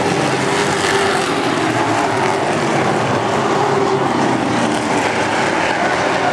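NASCAR race trucks' V8 engines running at speed on the track, a loud, steady wash of engine noise with no clear single pass.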